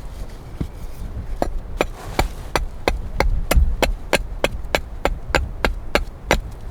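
A run of quick, evenly spaced strikes on wood, about three a second, starting about a second and a half in: chopping or knocking on wood with a blade or tool.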